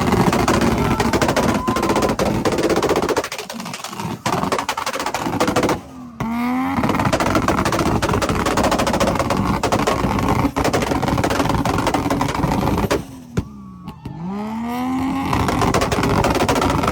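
Car engine revved hard and held high, with rapid crackling pops from the exhaust. The revs drop away briefly about six seconds in and again near the end, then climb again each time.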